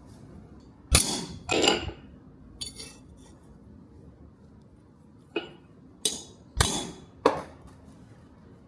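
Irregular metal-on-metal clinks and knocks, about seven separate strikes with short ringing tails, the loudest about a second in.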